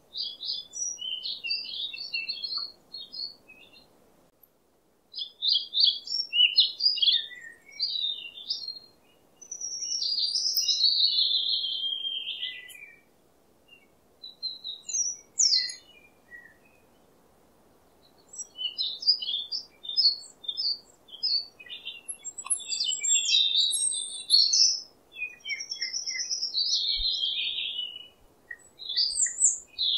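Wild songbird singing in phrases of quick, high chirps and trills, broken by a few short pauses, some phrases sliding down in pitch.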